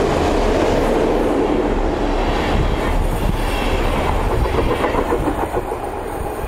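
A DB class 110 electric locomotive and its passenger coaches run over a steel railway bridge, wheels rumbling on the rails. The sound is loudest as the locomotive passes, then eases as the coaches follow.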